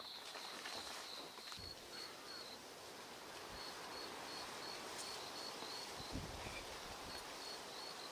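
An insect chirping in a steady high-pitched pulse, about four short chirps a second, over a soft even hiss, with a couple of low thumps.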